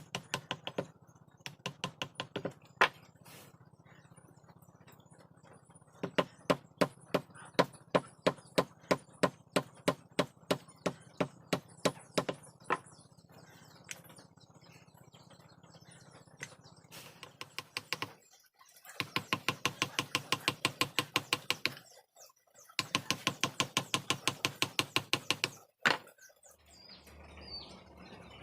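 Carving chisel struck with a mallet into hardwood: sharp taps at a steady two or three a second, then runs of quicker, lighter taps at about eight a second, with short pauses between runs.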